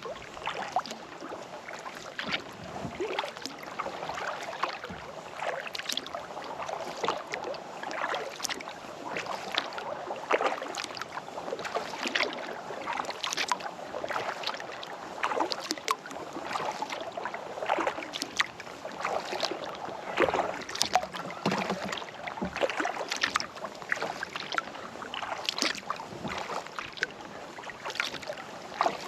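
Kayak paddle dipping into lake water, with irregular splashes and drips from the blades.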